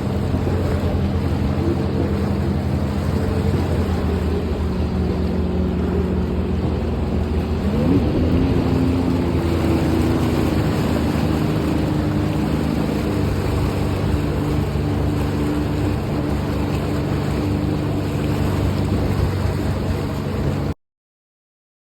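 Jet ski engine running under way, with wind and water noise. About eight seconds in, the engine pitch rises as the throttle opens, then holds higher. The sound cuts off abruptly near the end.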